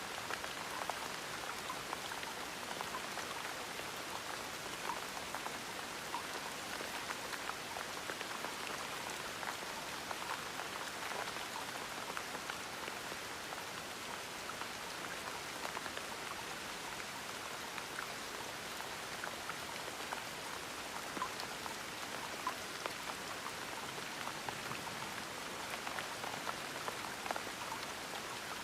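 Steady gentle rain, with the scattered patter of individual drops landing on a surface.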